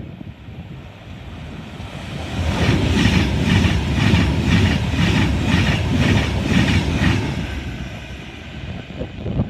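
Class 390 Pendolino electric trains passing through: the rush of wheels on rail builds up, carries a steady clickety-clack of wheels over rail joints about twice a second, and fades away near the end.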